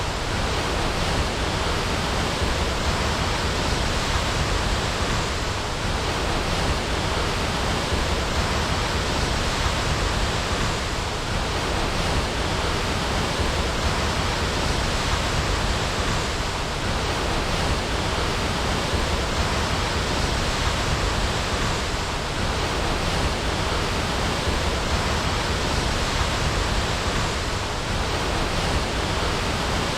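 Waterfall: water pouring and splashing in a steady, full rushing noise.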